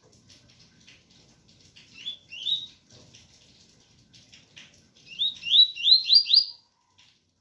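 Double-collared seedeater (coleiro) singing its 'ganga 001 entre tui tui' song type. It gives two rising whistled notes about two seconds in, then a quick run of four or five rising notes near the end. Underneath is a faint background of rain.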